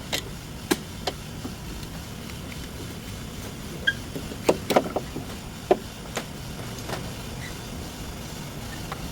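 Car engine running with a steady low rumble, with a series of sharp knocks and clicks at irregular intervals, several close together about halfway through.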